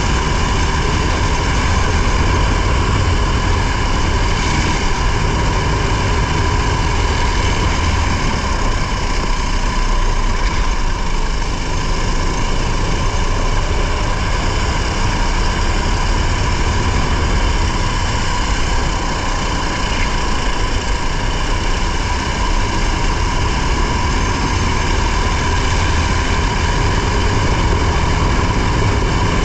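Racing car's engine held at high, nearly constant revs, with heavy wind and road rumble, heard from an onboard camera. It runs steadily with little change in pitch.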